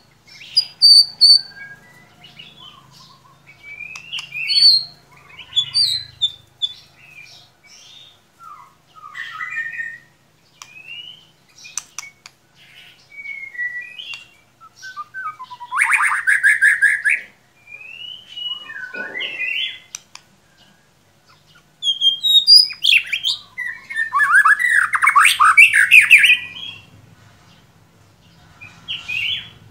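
White-rumped shama singing: a varied run of short clear whistles and pitch glides, broken twice by louder, harsh, scratchy chattering phrases.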